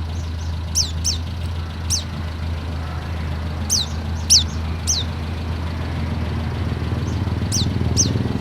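Oriental white-eye (pleci) calling: short, high, thin chirps that each drop quickly in pitch, in small groups of one to three, over a steady low hum.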